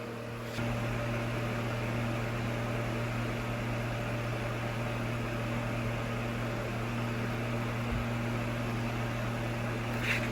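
Mini USB fan running: a steady rush of air over a low motor hum. About half a second in it shifts to a different pitch and gets louder, as when its speed setting is changed, then runs steadily.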